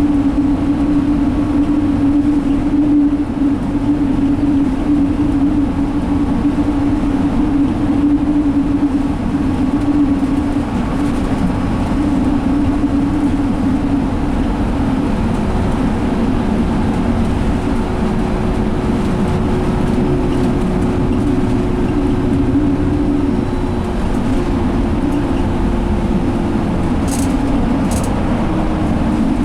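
Inside a 2017 Alexander Dennis Enviro500 double-decker bus under way: its Cummins ISL six-cylinder diesel and Allison transmission make a steady drone over road noise. Two brief ticks come near the end.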